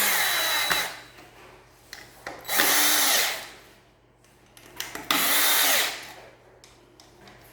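Power drill/driver tightening the screws that hold a ceiling-fan blade, run in three short bursts, each spinning up and winding down.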